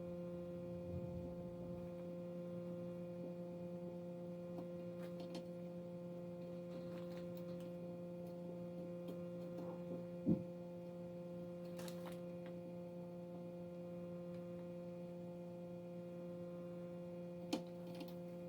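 Steady low electrical hum with a few faint taps and clicks.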